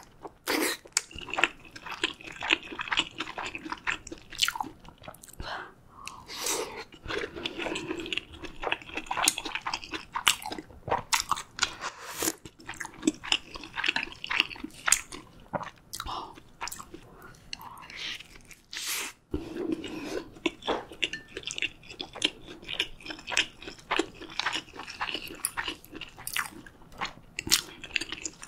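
Close-miked chewing and biting of dumpling ramyun and tuna gimbap, with many sharp, irregular wet mouth clicks.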